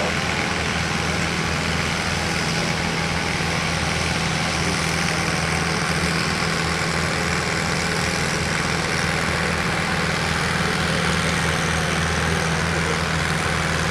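Ford 861 diesel tractor engine idling steadily.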